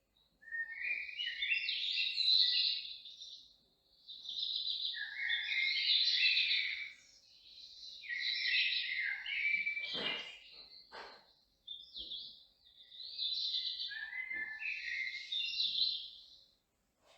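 A songbird singing in repeated warbling phrases of two to three seconds each, with short pauses between them. A couple of sharp clicks come about ten seconds in.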